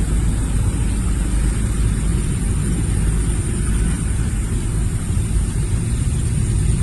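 Wind buffeting the microphone: a steady, uneven low rumble, with a thin steady high hiss above it.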